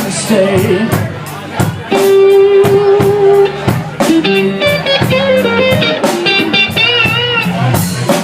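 Live blues trio playing a slow blues: an electric guitar lead fill between vocal lines over bass and drums. It has a long held note a couple of seconds in and bent notes with wide vibrato near the end.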